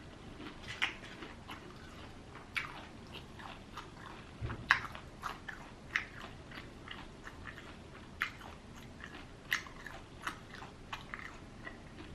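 A person biting and chewing crispy Popeyes fried chicken: irregular crunches about once or twice a second, with a dull low thump about four and a half seconds in.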